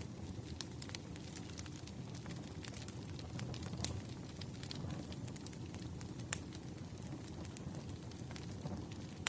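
Campfire crackling: a steady low rumble of burning wood with irregular sharp pops and snaps, two of them louder than the rest.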